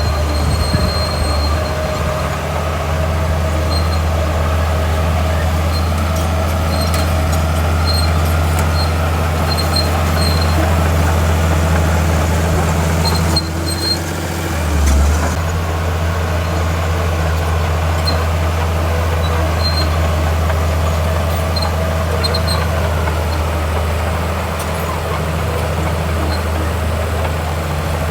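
Heavy diesel earthmoving machinery running steadily, a deep engine drone, with faint short high squeaks now and then. The engine note dips about thirteen seconds in and surges briefly a second or so later.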